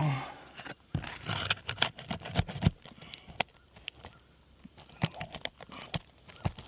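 Scraping, crinkling and scattered sharp clicks and snaps of brittle 3-tab asphalt shingles being pried and lifted loose from the roof.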